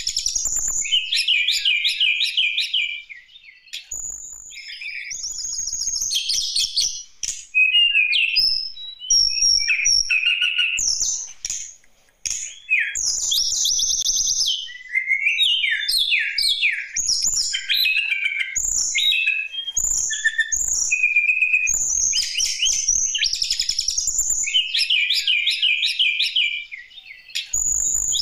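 Tledekan gunung (white-browed shortwing) singing loudly and continuously: varied phrases of rapid trills, chirps and whistles, separated by short pauses.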